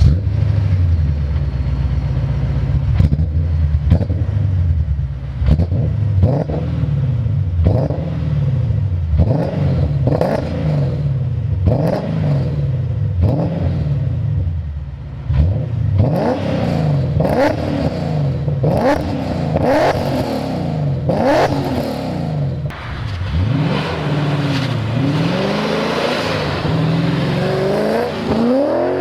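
BMW M5 E39's 4.9-litre V8 being revved again and again just after starting, its pitch rising and dropping back many times, with a longer climb near the end.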